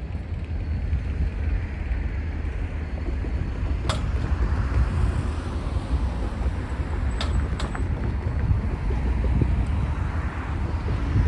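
Low, steady rumble of a slow-moving freight train rolling over a road crossing, with a few sharp metallic clicks.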